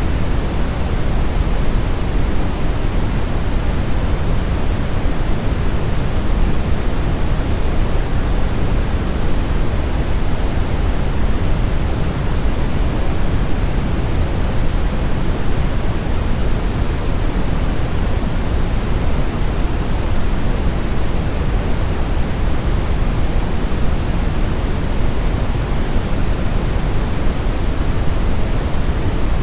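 Steady, unchanging brown noise: a deep rushing hiss with most of its weight in the low end, fading toward the top.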